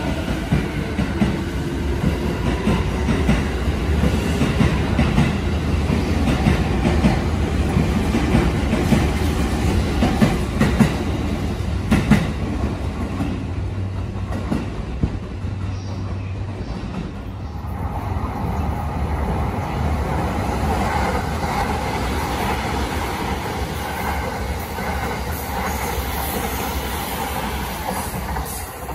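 JR East 255 series electric express train running past at close range, its wheels clattering over rail joints under a heavy low rumble. About two-thirds of the way through, the sound changes to a smoother, steady rumble of a train running by.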